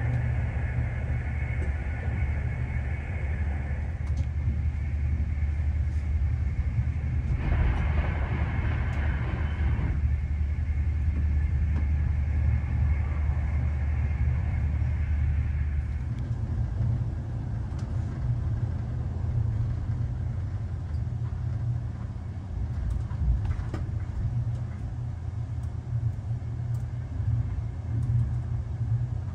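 Steady low rumble and hum of a VR InterCity train running, heard inside the passenger cabin. A brief louder hiss comes about 8 seconds in, the deep hum changes about halfway through, and a few faint clicks follow in the second half.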